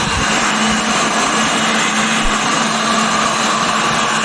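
Electric hot-air blower running steadily with a motor hum, force-drying freshly sprayed weld-through primer on a car body panel.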